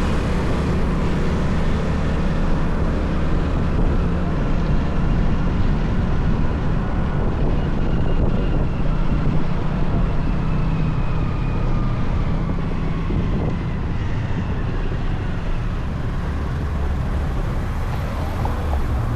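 Motorcycle engine running and road noise while riding at a steady pace, with a strong low rumble underneath; a faint whine slowly falls in pitch around the middle.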